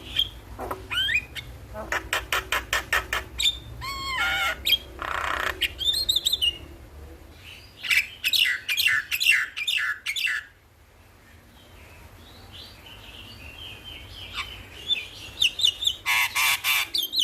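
Javan myna (jalak kebo) song: bursts of rapid clicking notes, harsh chatter and short whistled glides, with a quiet gap about two-thirds of the way through before softer notes build into a loud burst near the end.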